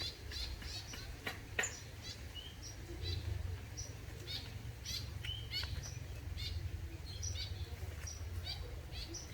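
Small birds chirping: short, high chirps repeated all through, at times several a second, with a few sharp clicks about a second and a half in, over a steady low rumble.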